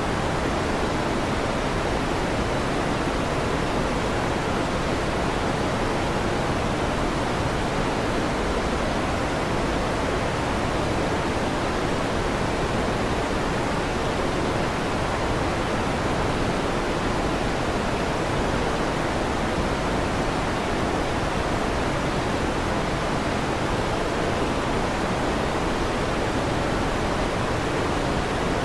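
Electric fan running steadily, a constant even rushing noise with most of its weight in the low and middle range.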